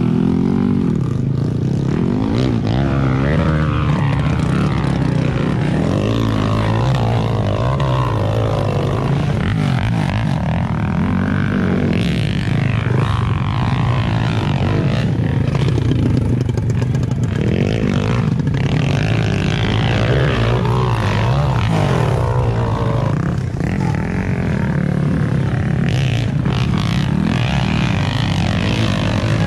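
Dirt bike engine running and revving up and down repeatedly as it is ridden on a trail.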